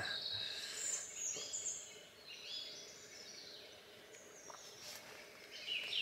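Faint songbird singing: thin, high-pitched warbling phrases, some falling in steps, over quiet background noise.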